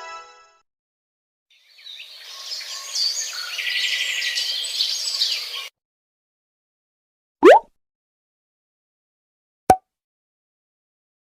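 Birds chirping for about four seconds, then cut off abruptly. Then a short, quick rising glide, and about two seconds later a single sharp click.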